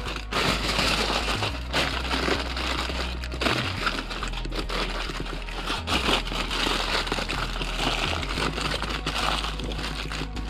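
Aluminium foil crinkling and crackling continuously as it is folded and pressed tightly around a brisket.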